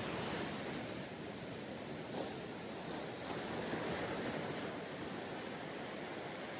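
Sea waves washing onto a sandy beach, a steady surf hiss that swells a little as a wave breaks and runs up.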